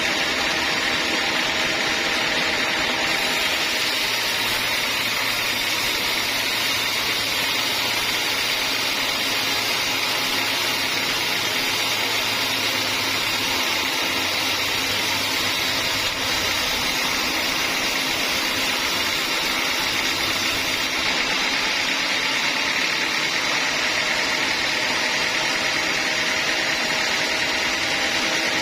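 Band sawmill running steadily and sawing a teak log. A high hiss and a low hum join about three seconds in and drop away about seven seconds before the end.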